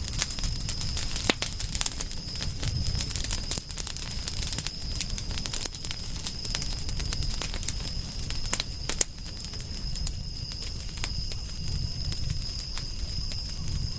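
Wood campfire crackling, with many irregular sharp pops and snaps over a low rumble of the flames, and a steady high-pitched tone behind it.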